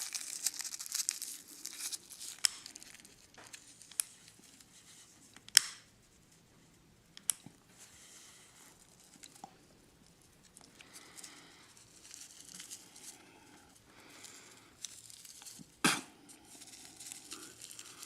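Rolling paper and dry crumbled tobacco leaf crinkling and rustling in the hands during a clumsy attempt to hand-roll a cigarette. It is densest at the start and again near the end, with a quieter stretch in between and a few sharp clicks along the way.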